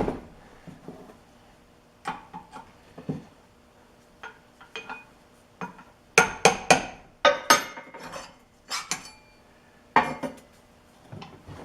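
Steel drill press parts being handled and taken apart: a run of sharp metal-on-metal clinks and clanks, each with a brief ring, in several groups, the busiest from about six to eight seconds in.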